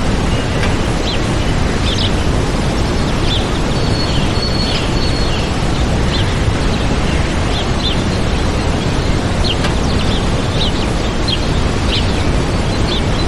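Waterfall rushing with a loud, steady roar, with small birds chirping over it in short, high notes scattered throughout and one briefly held whistle about four seconds in.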